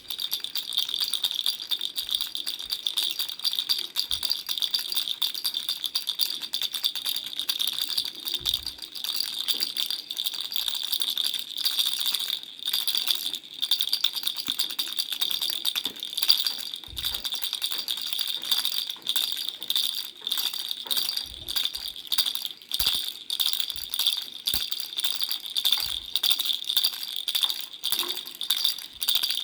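Baby rattle shaken continuously, a dense, steady stream of bright clicks and jingles.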